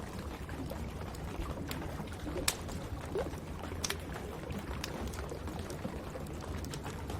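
Wood fire crackling in a fireplace, with a few sharp pops scattered through, over a steady low rush of rain.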